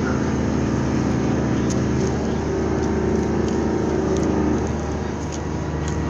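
A boat engine running steadily, a low drone with a higher hum over it that fades about four and a half seconds in.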